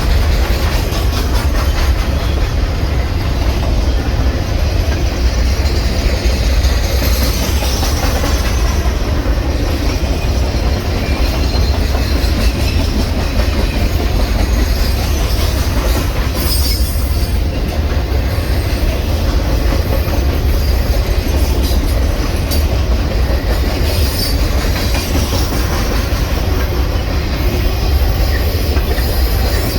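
A train running past on the rails: a steady, loud rumble, with brief high-pitched sounds now and then.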